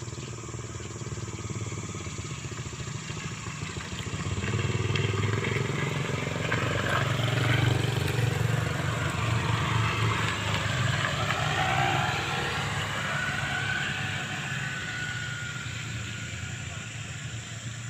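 A motorcycle passing by. Its engine grows louder about four seconds in, is loudest midway, then fades with a falling pitch, over a steady low engine hum.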